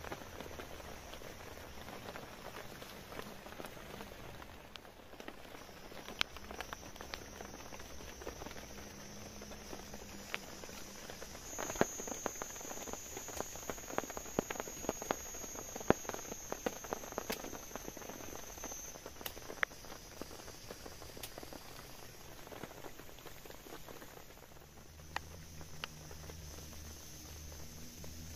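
Raindrops and drips pattering on a tarp, a steady hiss with scattered sharp taps that thicken about ten seconds in. Under it is a steady high-pitched insect drone that grows louder about twelve seconds in.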